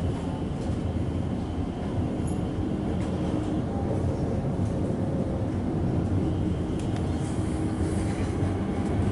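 Suburban electric train running along the track, heard from inside the carriage: a steady rumble of wheels on rail with a few faint clicks.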